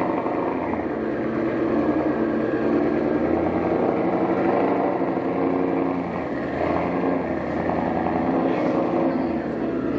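Car engine and exhaust running steadily while the car is driven, pitch rising and falling a little.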